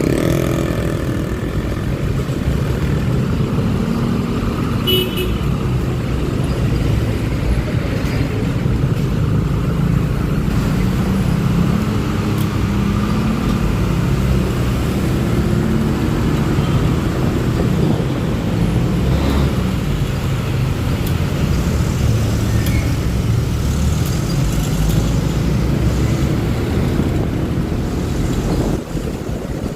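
Honda Click 125i scooter's single-cylinder engine running under way in city traffic, its pitch rising and falling with speed, over steady rumble of wind and traffic. A brief high beep sounds about five seconds in.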